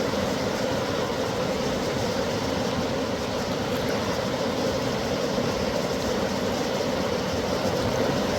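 Steady rushing of a fast-flowing river, an even, unbroken noise.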